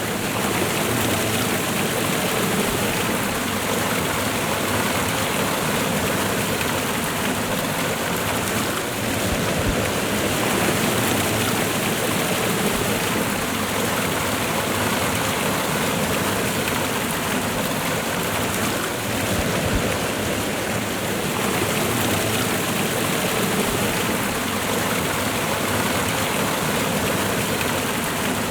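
Waterfall and river water rushing steadily: a constant, even wash of water noise.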